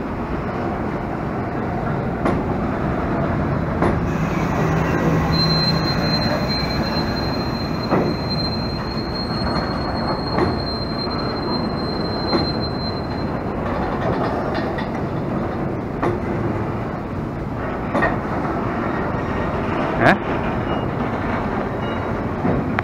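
A freight train of empty flat wagons rolling past while entering the station: a steady rumble of wheels on rail with scattered clunks every second or two. A thin, high wheel squeal sounds for about eight seconds, starting about five seconds in.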